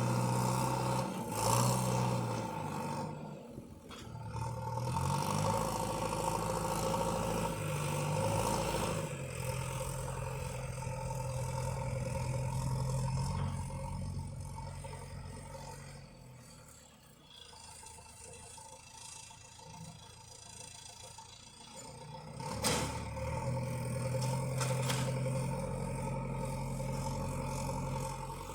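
Tractor engine running, its pitch stepping up and down as the revs change. It falls quieter for several seconds past the middle, then comes back up after a sharp knock about three-quarters of the way through.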